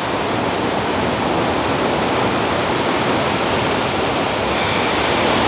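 Ocean surf: a steady wash of breaking waves, swelling slowly.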